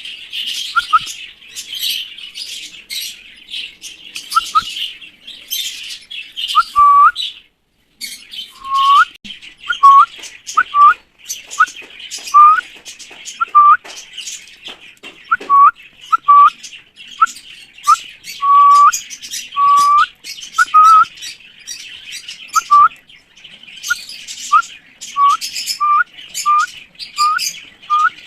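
Birds chirping continuously in a dense chatter, with one bird giving short, rising whistled notes over and over, roughly one or two a second.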